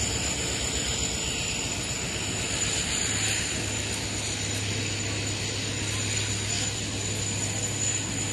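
Indian Railways passenger coaches rolling past on the track beside the platform: a steady run of wheels and bogies on the rails with a rapid rattling clatter, over a thin steady high tone.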